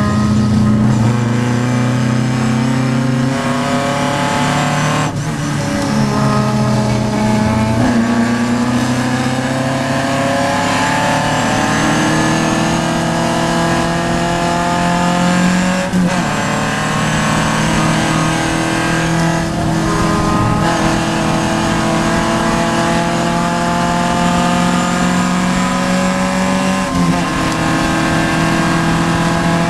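Vintage Triumph race car's engine heard from inside the car, running hard at high revs. Its pitch climbs slowly through long stretches, with a handful of brief breaks in the note.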